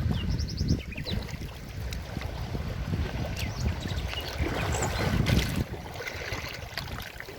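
Forest river flowing: a steady rush of water with an uneven low rumble, and a few brief high chirps now and then.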